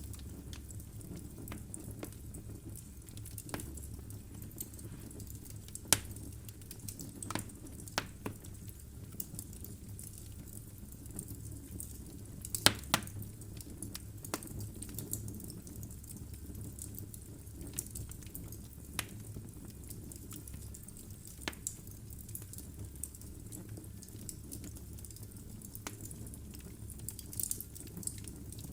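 Wood fire burning in a fireplace: a steady low rumble of flame with irregular sharp crackles and pops from the logs, two louder snaps about six seconds in and a cluster near the middle.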